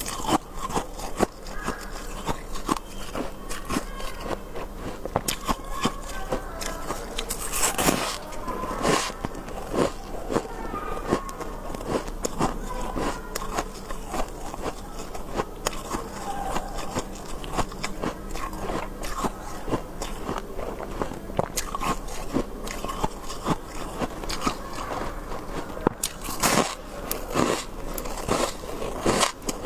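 Close-up biting and chewing of soft, powdery freezer frost: a dense run of fine crackling crunches, with a few louder bites.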